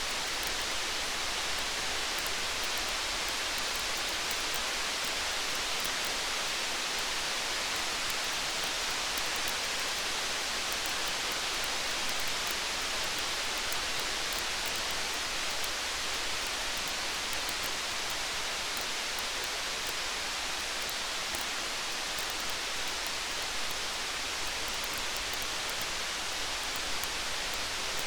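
Steady rain hiss, with faint fine crackles of a campfire mixed in throughout.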